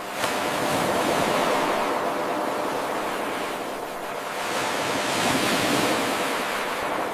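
Ocean waves washing ashore in a rolling hiss that surges and eases, dipping about halfway through and building again. A sudden jump in level comes about a quarter second in, where the eight-second wave recording restarts its loop.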